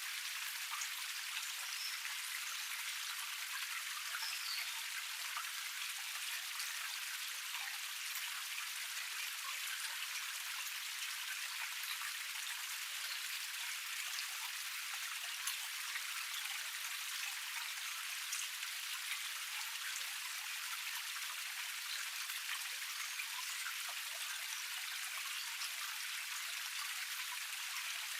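Small cascade in a forest stream: water running over a low drop, a steady rush with many small splashes and drips and no deep rumble.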